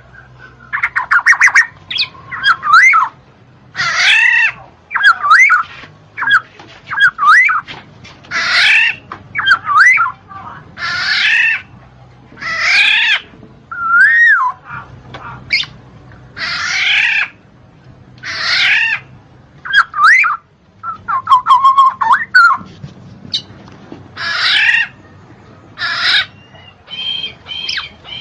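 Black-naped oriole (kepodang) singing: short, loud phrases of bending whistled and harsher notes, repeated about every one to two seconds.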